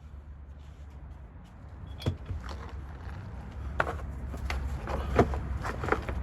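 Sharp metallic clanks and knocks of tools working on car parts: one knock about two seconds in, then a busier run of clicks and knocks in the second half, over a steady low hum.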